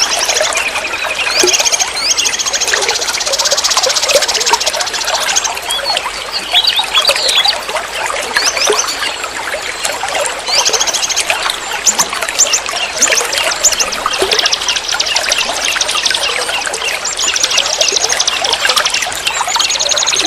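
River water flowing and splashing over rocks, with birds singing rapid trilling phrases over it several times.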